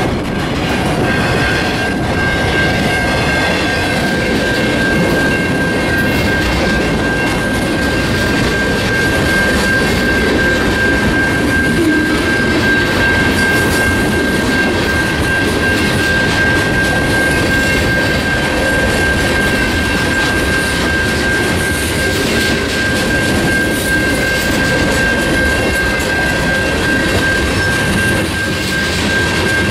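Train rolling past at a steady loudness: wheels running on the rails with a continuous rumble, and a steady high-pitched squeal held over it.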